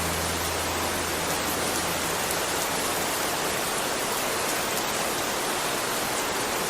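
Steady rain, an even hiss of falling rain. A low held bass note from the music fades out in the first couple of seconds.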